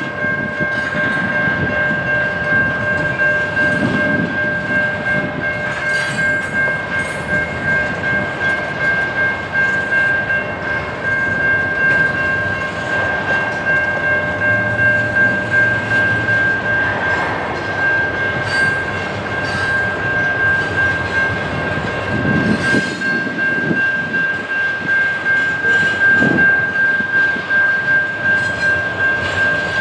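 Train rolling past with wheels clicking over the rails, over a steady high-pitched ringing tone throughout.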